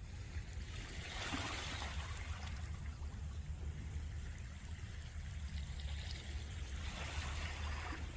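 Small ocean waves washing against the shore, swelling twice, about a second in and again near the end, over a steady low wind rumble on the microphone.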